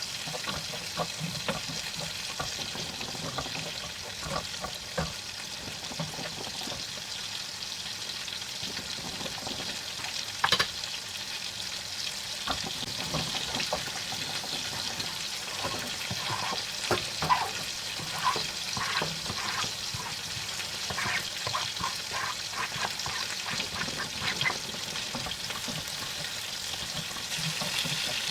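Food sizzling steadily in a frying pan for paella, stirred with a utensil that clicks and scrapes against the pan. There is one sharp knock about ten seconds in, and a busier run of taps in the second half.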